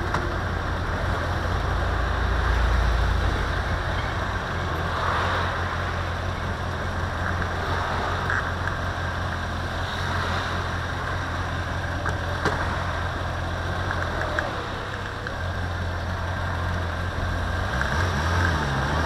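Motorcycle engine idling with a steady low hum while stopped in traffic, picked up by an action camera mounted on its mirror.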